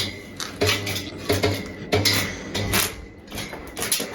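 Irregular metal clinks and taps on a steel frame, about two a second, with an on-and-off low hum underneath.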